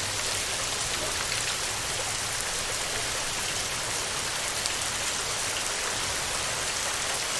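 Heavy rain pattering steadily on a metal (tin) roof, a dense even hiss with fine drop ticks throughout.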